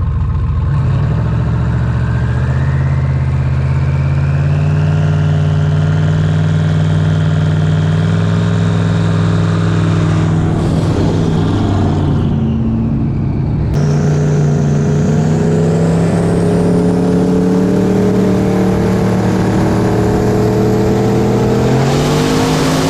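Turbocharged V8 accelerating hard. The engine note climbs steadily with a high turbo whine rising over it. The sound changes abruptly about 14 seconds in, and the whine rises again.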